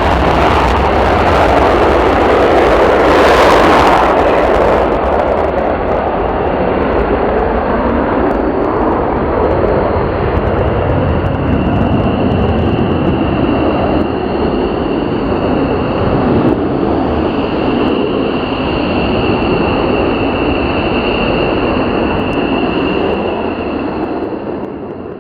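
Jet aircraft engines running loud, a broad noise whose hiss dulls about four seconds in, leaving a steady high whine that grows stronger in the second half.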